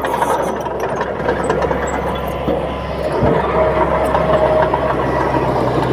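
Crawler bulldozer's diesel engine running steadily, with a brief low knock about three seconds in.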